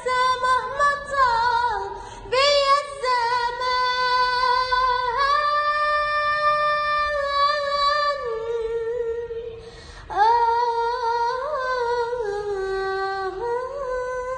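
A high solo voice sings an Arabic song unaccompanied, holding long wavering notes with sliding ornaments. It breaks off briefly about nine seconds in, then starts again with a rising slide.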